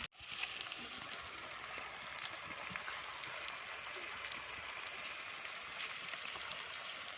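Food frying in a pan: a steady sizzle with small crackles, starting just after a brief dropout at the very beginning.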